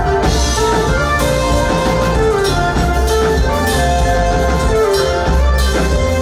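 Live church praise music: an instrumental passage of held notes stepping from one pitch to the next over bass and drums, with no singing.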